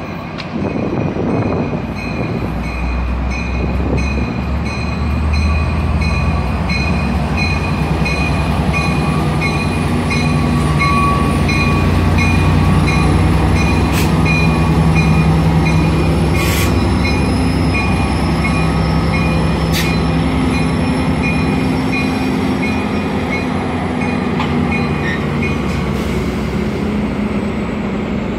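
Sounder commuter train rolling slowly through a station: the diesel locomotive runs with a deep steady rumble while its bell rings in an even rhythm. A few sharp metallic clanks come around the middle.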